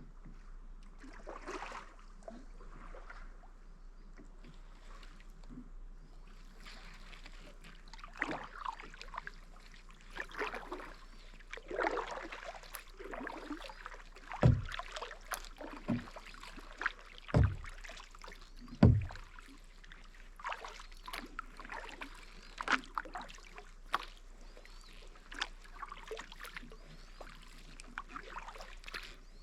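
Kayak paddling: irregular paddle strokes dipping and splashing, with water dripping off the blades. Three dull thumps stand out about halfway through, the loudest sounds.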